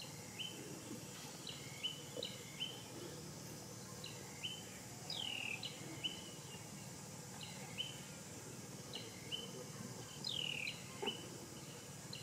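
Wild birds calling over and over with short high chirps, plus a longer falling whistle twice, over faint open-air background noise.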